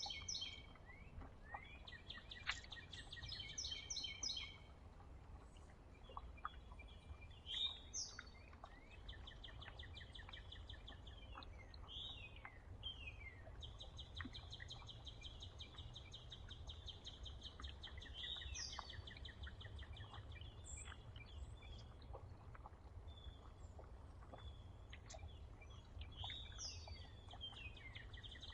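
Several songbirds chirping and trilling: rapid repeated-note trills, one held for about three and a half seconds midway, and quick down-slurred whistled notes. Under them is a faint steady low rumble.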